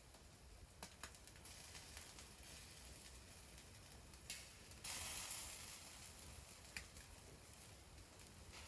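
Faint hiss with a few sharp clicks, and a brief louder rush of hiss about five seconds in.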